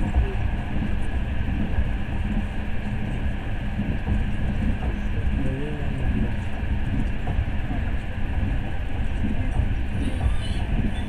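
Passenger train car running, heard from inside the carriage: a steady low rumble with no clear rhythm.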